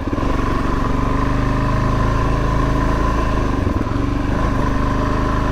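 Suzuki DR-Z400S single-cylinder four-stroke engine running at a steady throttle while riding, with a brief dip in the engine note a little past the middle.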